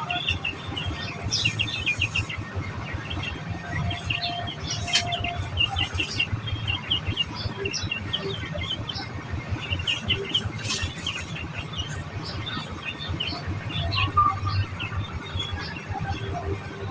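Society finches chirping in clusters of short, rapid high notes.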